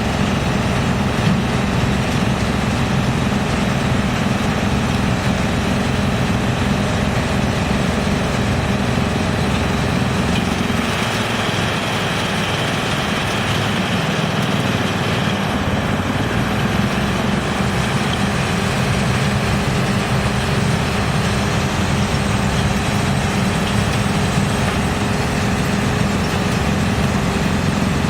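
Drum wood chipper running with a steady mechanical drone. For several seconds around the middle the low hum weakens and a higher hiss comes in.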